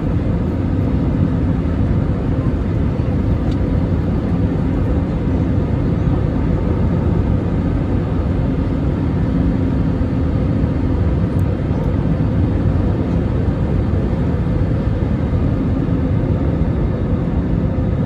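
Airbus A320neo airliner's jet noise during landing: a steady, loud rumble with faint held tones, unchanging throughout.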